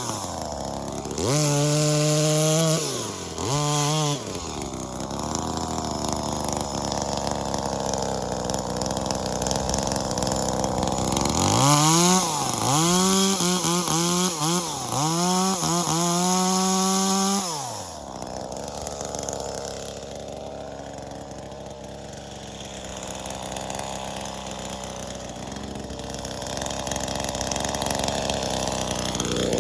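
V-Modest 2511T top-handle chainsaw, a clone of the Echo 2511T with a small two-stroke engine, revved up and dropping back in short throttle bursts. It revs twice near the start and in a quick run of blips in the middle, then settles to a quieter steady idle for the last ten seconds or so.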